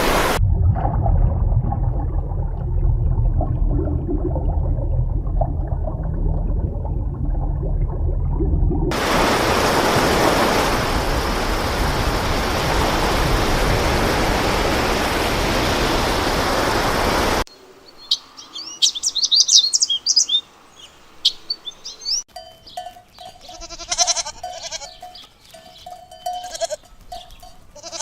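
A steady low rumble, then a loud even rushing noise that cuts off suddenly, then chirping birds, and from about 22 seconds in, short repeated bleats from livestock.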